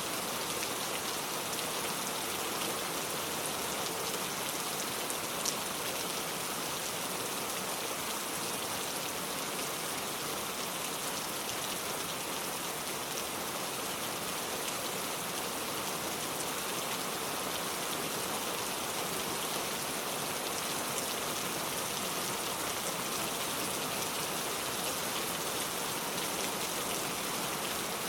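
Steady, heavy rain falling, an even hiss with fine pattering of drops on surfaces and a single small click about five seconds in.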